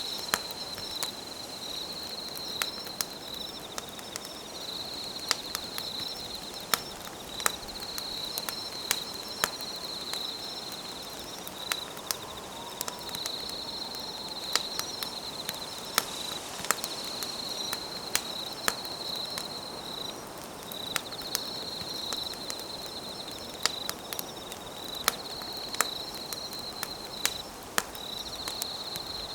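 Wood campfire crackling, with frequent sharp pops, under a steady high insect trill that breaks off and starts again every few seconds.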